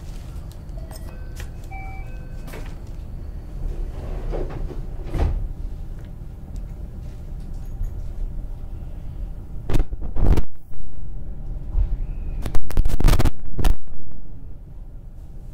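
JR West 223-2000 series electric multiple unit running, heard from inside the car: a steady low rumble from the running gear, with loud wheel clatter over the track about ten seconds in and again in a quick cluster of knocks a couple of seconds later.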